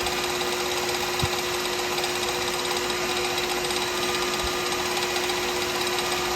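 Wood lathe motor running with a steady hum while a pen blank spins, with a couple of faint knocks.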